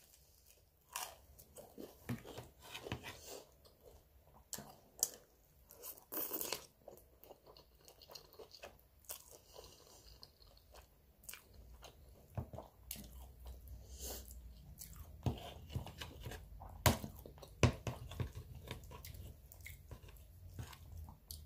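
A person chewing and biting while eating spaghetti with meat sauce and bread, with many irregular wet mouth smacks and small clicks, a few of them sharper and louder.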